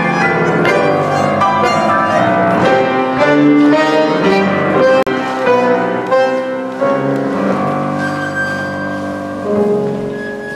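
Bandoneon and piano playing an Argentine tango live: held bandoneon chords over piano, a brief sharp break about halfway, then playing on more softly toward the end.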